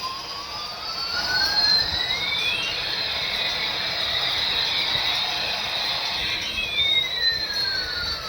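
Electronic toy sound effect from a small speaker: two synthetic tones sweep slowly in opposite directions, one rising and one falling, meet about three seconds in, then part again near the end, over a steady hiss.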